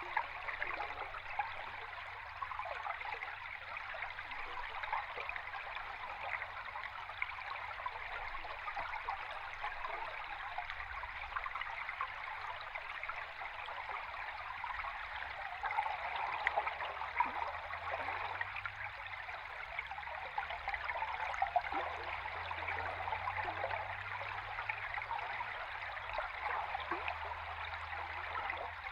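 A river stream heard underwater: a steady, dense bubbling and fizzing rush of flowing water.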